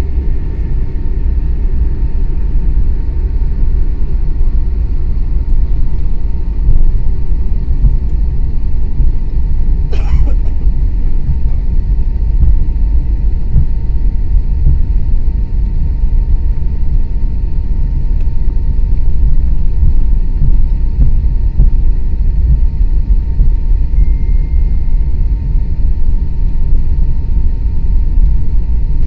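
Steady low rumble inside the cabin of an Airbus A321neo on the ground after landing, as it rolls along under engine power, with a faint steady hum above it. A single brief click about ten seconds in.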